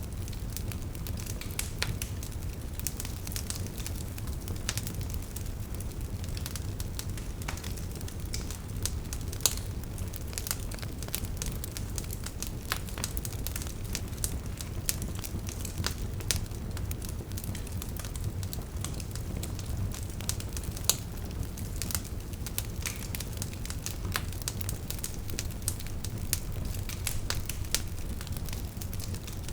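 Wood fire burning steadily with a low rumble and constant crackling of logs, with scattered sharper pops.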